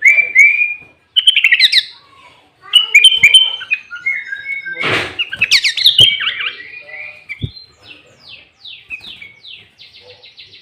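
Sooty-headed bulbul singing loud, bubbly whistled phrases. From about eight seconds in the song turns into a quieter, fast run of short falling chirps.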